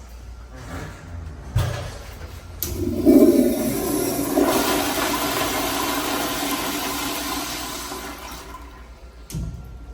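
Commercial restroom toilet flushing: a click as it is triggered, then a loud rush of water about a second later that holds for a few seconds and tapers off, with a short thump near the end.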